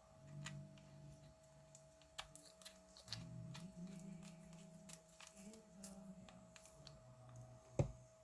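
Faint, scattered clicks and taps of small parts being handled during repair work, over a steady faint hum, with one louder knock near the end.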